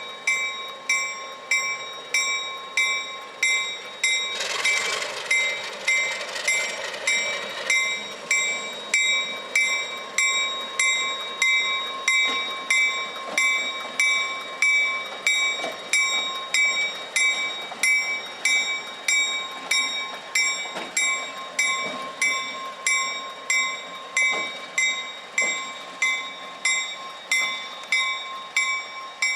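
A railroad bell ringing steadily, about three strikes every two seconds, each strike ringing on. A louder spell of noise over it runs for a few seconds from about four seconds in.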